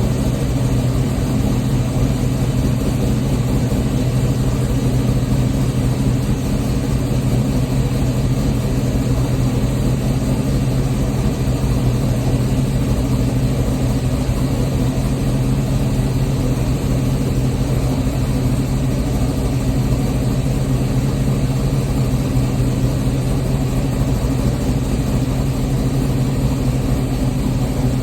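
A G-body Oldsmobile Cutlass's LS-swapped 6.0-litre V8 idling steadily while warming up after a cold start, with no revving.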